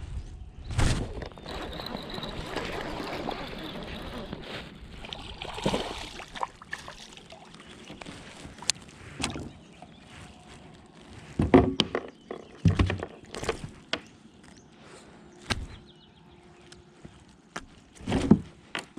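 Water sloshing and splashing against a fishing kayak, with scattered light clicks and knocks of gear on the hull. There are a few louder thumps in the second half.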